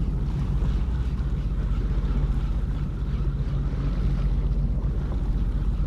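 Jet ski engine running steadily, with wind noise on the microphone.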